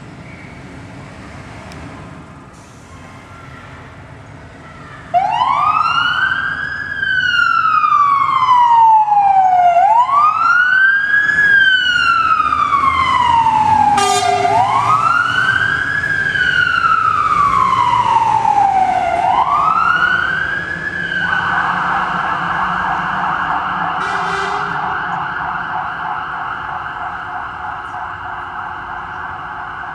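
Fire engine siren (MAN TGM 18.340 fire truck) starting up about five seconds in: a wail that rises quickly and falls slowly, four times over, then switches to a fast warble about three-quarters of the way through. Two short, lower horn blasts cut in, and the truck's engine rumbles underneath.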